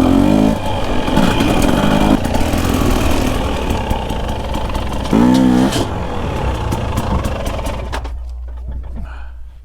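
Dirt bike engines running, mostly a steady idle with a few short revs, fading out near the end.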